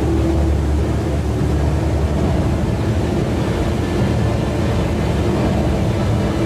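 Steady low rumble of a large indoor waterfall pouring into its basin, with faint held music tones at the start and end.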